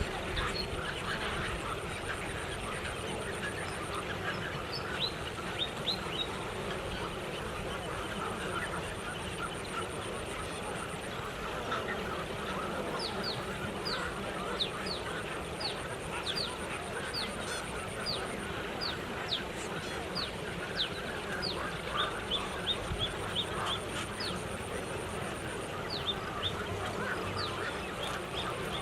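A large flock of birds calling together in a dense, continuous chorus. Many short, sharply falling whistled notes are scattered through it, most thickly in the second half.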